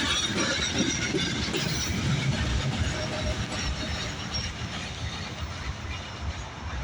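Loaded Herzog rock train of ballast hopper cars rolling slowly past on the rails: a steady rumble and clatter, with faint high wheel squeals scattered through it.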